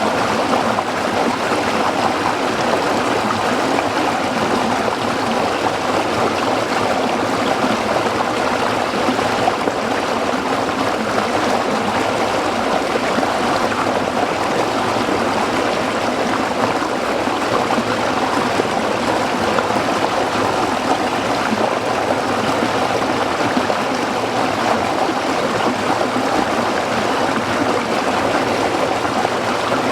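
Stream water flowing and splashing over rocks, a steady rushing babble.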